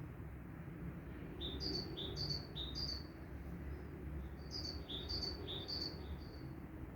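A songbird singing: two bursts of three quick two-note chirps, each a lower note stepping up to a higher one, about half a second apart, the first near the start and the second about halfway through, over a low steady rumble.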